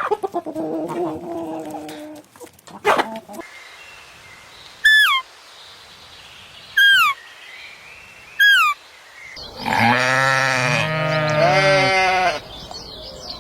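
A goat bleating loudly for about three seconds near the end, after three short, high, falling chirps a couple of seconds apart and a lower call at the start.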